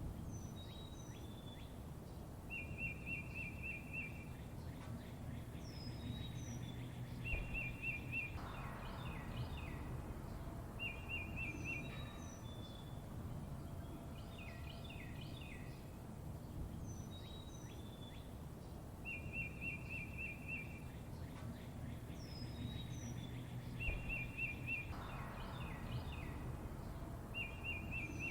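Several songbirds chirping and whistling, with a short rapid trill that comes back several times, over a steady low background rumble. The same stretch of birdsong repeats about every 16 seconds, as a looped recording does.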